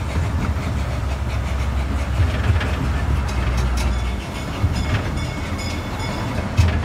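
Park railroad train rolling along the track, heard from aboard an open-sided passenger car: a steady low rumble with the click of wheels over rail joints. The rumble eases about four seconds in, and there is a sharp knock near the end.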